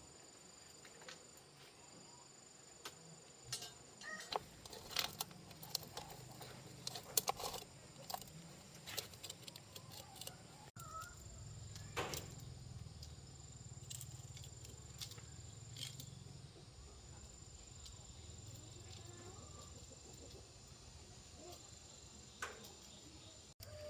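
Faint, scattered clicks and taps, thickest in the first half, over a steady high-pitched background drone.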